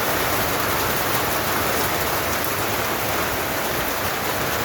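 Steady rain falling, an even, loud hiss.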